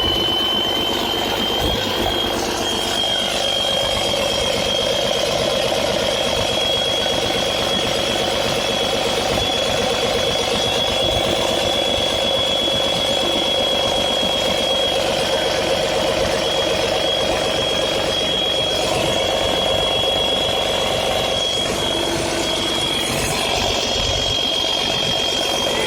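Tata Cummins six-cylinder engine running steadily just after starting, with a high whine that climbs in pitch over the first two seconds and then holds steady.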